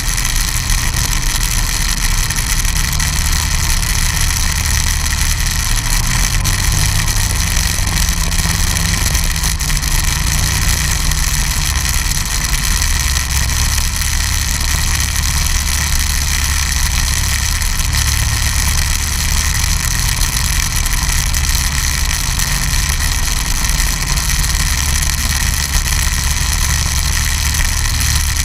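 Snowmobile engine running steadily at an even pitch and level.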